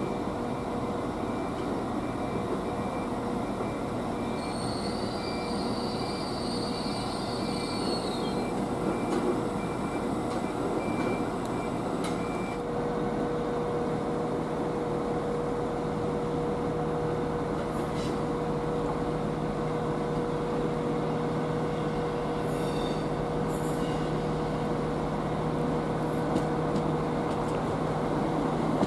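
Train running through the station with a steady rumble and hum, and a high wheel squeal for about four seconds near the start. A string of evenly spaced short beeps sounds over it for the first twelve seconds or so, and a low steady hum sets in about eleven seconds in.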